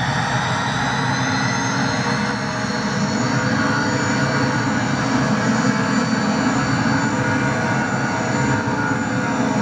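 McDonnell Douglas DC-10's three jet engines running at takeoff power: steady engine noise with high whining tones that rise slowly in pitch as the loudness builds a little.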